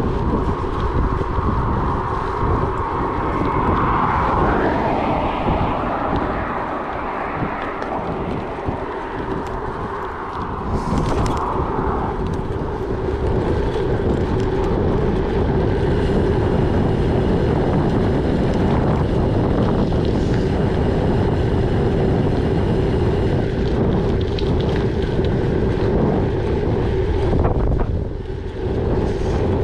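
Wind buffeting the microphone over the rumble of a gravel bike being ridden, with a steady hum from about halfway through.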